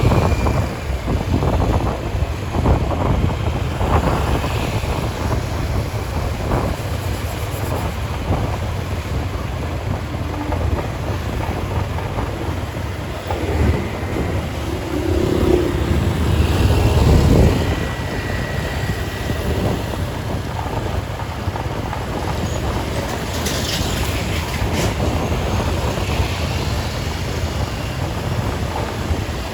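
Wind rumbling on the microphone over steady vehicle and road noise.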